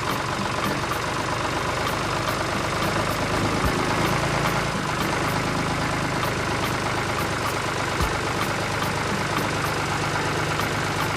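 Motor of a homemade tractor-cultivator running steadily.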